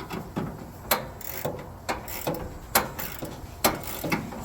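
Hand ratchet wrench turning a bolt, its pawl giving a sharp click about every half second on the back-and-forth strokes.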